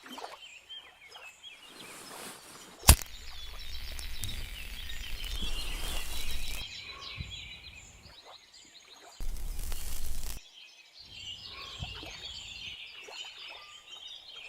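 Birds chirping. There is one sharp click a few seconds in. Two stretches of rushing noise with a low rumble follow, one after the click and a shorter one later.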